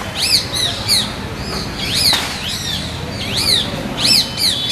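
Bird chirping: short, arched calls repeated in quick pairs and clusters over a steady low background noise.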